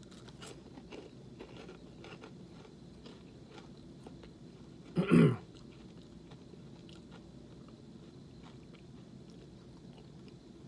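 A man crunching and chewing baked cheese puffs: crisp crackles in the first few seconds, settling into quieter chewing. About five seconds in comes one short, loud throat sound, falling in pitch.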